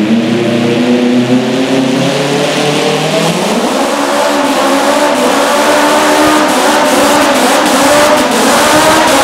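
Modified lawn tractor engine running hard at high throttle during a pull down the track. Its pitch holds fairly steady, and it grows a little louder in the second half.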